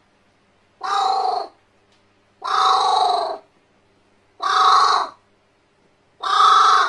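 Crow cawing four times, each caw loud, harsh and drawn out for up to about a second, spaced roughly two seconds apart.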